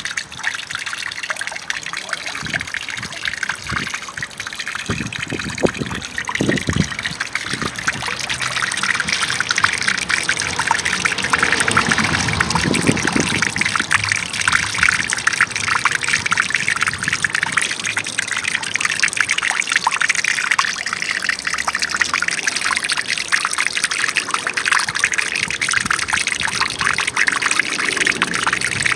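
Water trickling and splashing steadily, with a few deeper splashes in the first several seconds, getting a little fuller after that.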